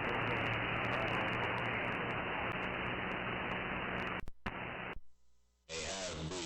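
CB radio receiver hissing with band static while no station is on frequency, with a faint low hum under it. The static cuts out for a moment about four seconds in and falls nearly silent just after five seconds, then another station's signal comes up near the end.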